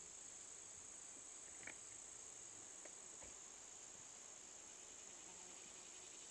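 Faint, steady, high-pitched insect chorus, with a few soft clicks near the middle.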